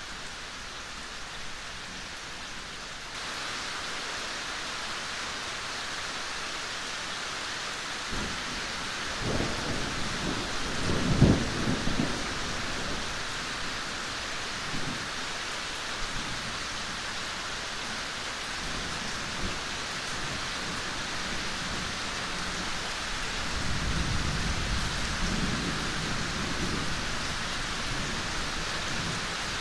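Steady rain, a dense hiss that grows slightly louder about three seconds in. Two low rumbles of thunder rise over it: one about eight seconds in, loudest around eleven seconds, and a softer one near the end.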